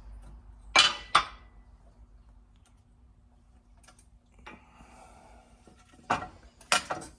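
Sharp metallic clinks and clacks of a pot metal trim piece and tools being handled and set down on a workbench: two loud ones about a second in, a fainter one midway, and three more near the end.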